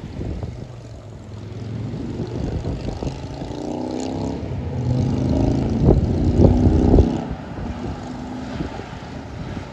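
A motor vehicle passing: its engine note builds, is loudest about six to seven seconds in, then fades.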